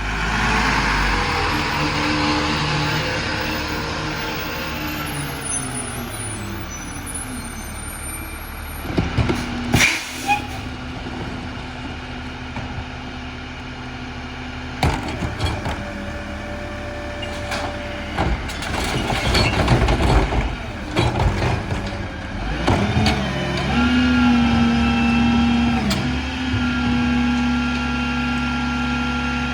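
Freightliner garbage truck with a Heil Formula 4000 rear-loader body at work. Its diesel engine runs and slows down, and there is a hiss of air brakes. Clanks and bangs follow as material is loaded into the hopper. Near the end the engine holds a steady, higher note with a whine.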